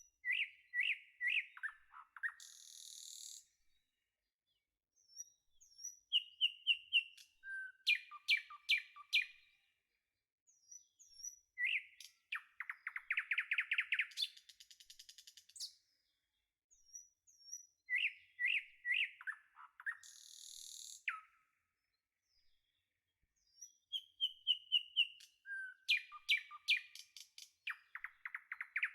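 Bird song: bursts of chirps and short whistled notes about every six seconds, with quiet gaps between them and the same phrases coming back again and again.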